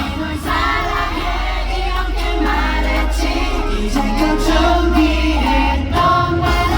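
Upbeat pop song played live over a concert sound system, with several voices singing together over the backing track.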